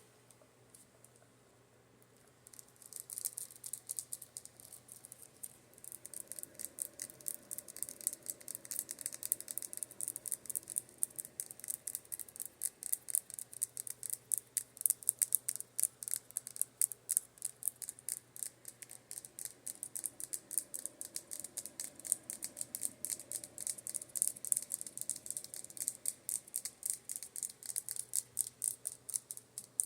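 Rapid, crisp tapping on makeup brushes, several quick taps a second, starting after a couple of quiet seconds. A fan hums faintly and steadily underneath.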